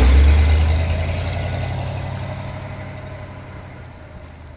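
A car engine running at a low, steady idle, loudest at the start and fading out gradually over several seconds.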